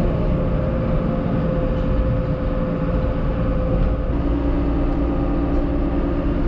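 Diesel engine of a John Deere 650K crawler dozer running steadily with a deep rumble, its pitch shifting slightly about four seconds in.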